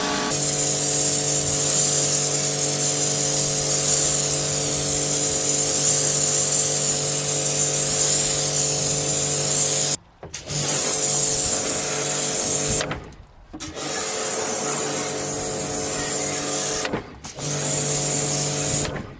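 Pressure washer running: a steady motor hum under the hiss of the water jet spraying onto carpet. The sound cuts out suddenly and briefly three times, about halfway through and twice more after that.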